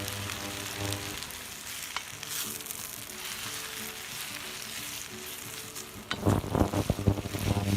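Sliced onions sizzling steadily in a hot pan while being stirred. About six seconds in, a quick run of louder knocks and scrapes begins.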